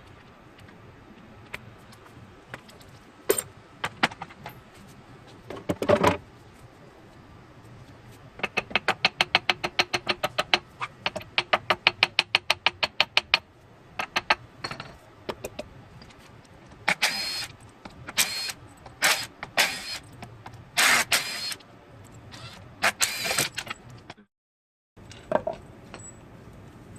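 Impact wrench hammering in a fast, even series for about five seconds, with scattered metal clanks and knocks of tools and engine parts before and after it.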